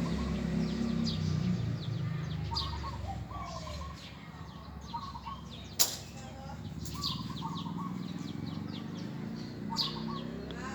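Doves cooing in short, repeated phrases every second or two, with smaller birds chirping higher up. A low rumble fades out over the first couple of seconds, and there is one sharp click near the middle.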